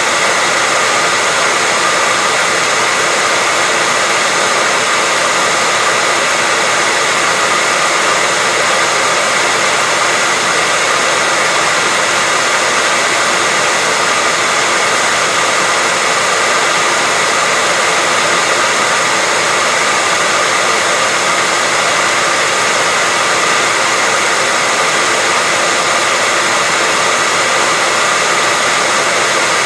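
Hairdryer running steadily at a constant speed: an even, loud rushing hiss of blown air with a faint high motor whine, no change in pitch or level.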